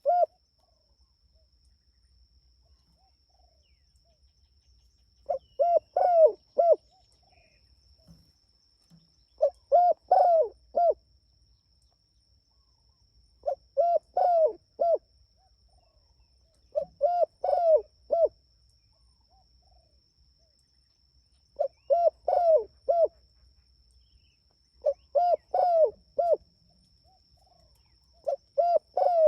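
Spotted dove cooing: a phrase of about four low, hooting notes, repeated about every four seconds, eight times over.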